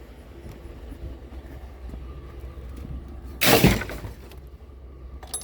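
Salvaged scrap pieces thrown down into a load, one loud crash about half a second long a little past halfway, over a low steady rumble.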